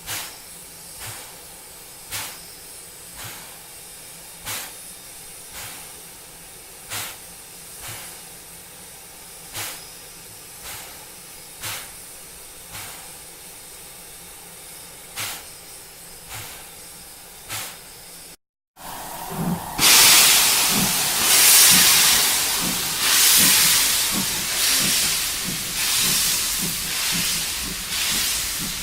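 Steam locomotive chuffing slowly, about one puff of exhaust a second. After a brief cut, a much louder rush of hissing steam with quicker, overlapping chuffs.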